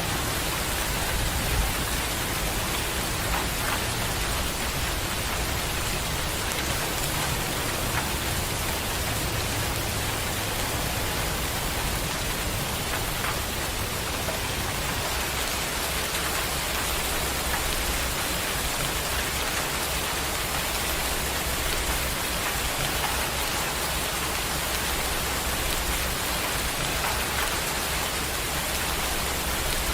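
Steady rain hissing without pause, with a low rumble underneath that is stronger in the first half.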